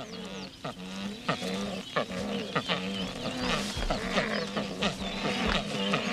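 Secretary birds calling at dawn among other birds on the African plains: many short chirps and calls overlap, over a low, broken, repeated call.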